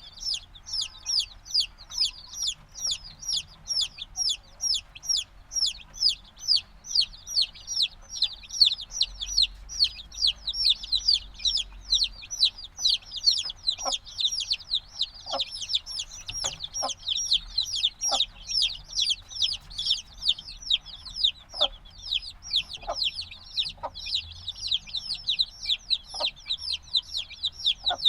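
A brood of chicks a few days old peeping nonstop. Several short, high, downward-sliding chirps come every second from many birds at once.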